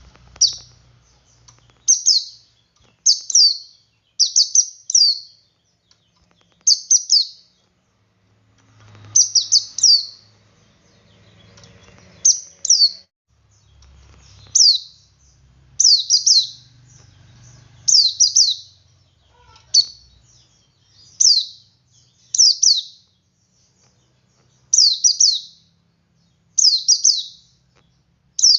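Male white-eye (pleci) singing its 'ngalas' song: short, high phrases of quickly falling notes, repeated about every one to two seconds.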